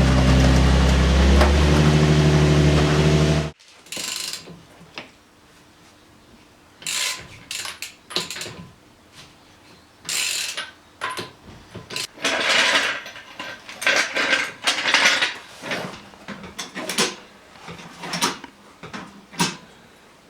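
The Nissan 350Z's V6 engine runs steadily, then stops abruptly about three and a half seconds in. After that comes a ratchet wrench clicking in short irregular bursts, with metal tools and parts being handled as the wheel nuts are undone.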